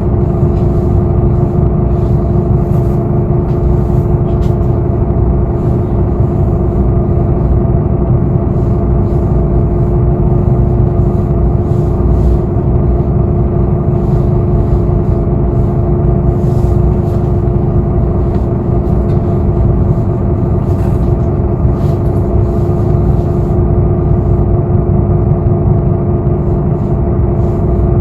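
A Korean bus heard from inside the cabin: a steady, even rumble with a constant hum running under it, and scattered faint rattles and ticks.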